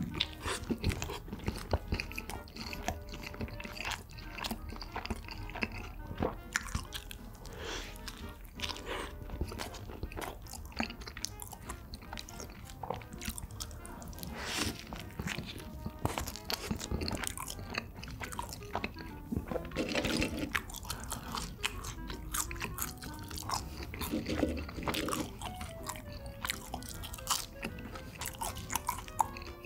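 Close-miked eating of a cheeseburger with lettuce: bites and steady chewing, full of small crunchy clicks and wet mouth smacks.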